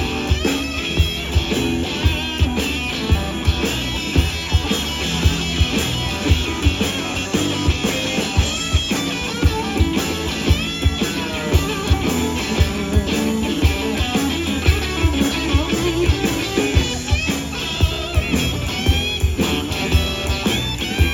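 Live blues band playing an instrumental boogie passage: guitar over drums, with a steady beat about twice a second.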